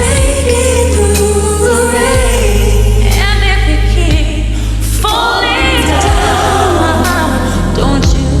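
Live pop ballad: a female lead vocal sung with bending runs in pitch over a full band with a steady bass, and what sounds like backing singers.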